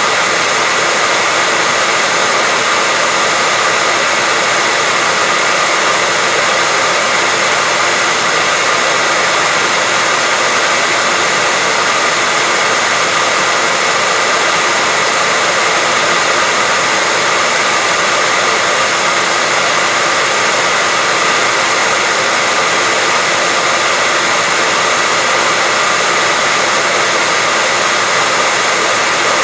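Hair dryer running steadily at constant speed: a continuous airy whoosh with a faint steady whine, used as white noise to lull a baby to sleep.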